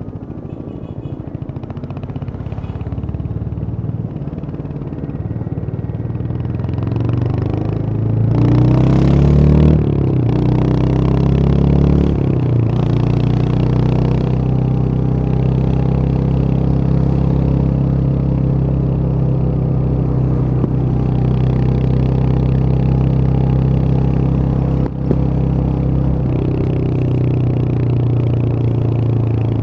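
Royal Enfield Hunter 350's single-cylinder engine pulling at low revs, then accelerating with a rising pitch about a third of the way in before settling into a steady run at cruising speed. A short click breaks it briefly near the end.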